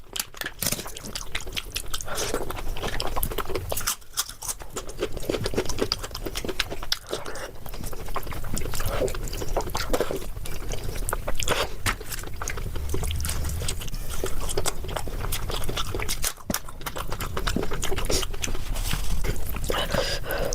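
Close-miked wet chewing and lip-smacking while eating soft khichdi with ghee: a steady run of small sticky clicks and squelches.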